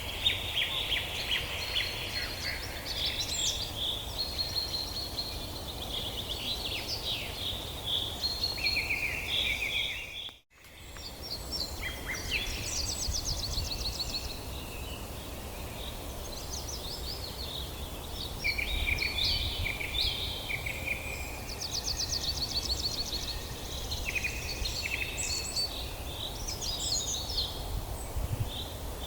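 Several songbirds singing and calling together in woodland: overlapping chirps, fast trills and short whistles over a low steady rumble. The sound drops out briefly about ten seconds in, then the chorus resumes.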